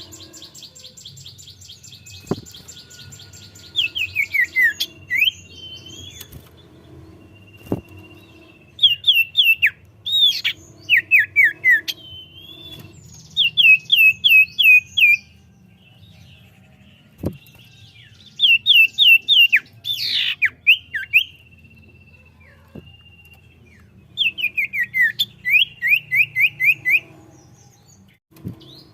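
Common iora singing in repeated bursts of five to eight quick down-slurred notes, with long level whistles in between.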